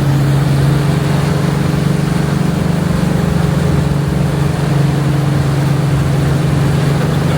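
Holden HQ Monaro's engine droning steadily at a low, even cruising pace, heard as a loud, unchanging hum from inside the car.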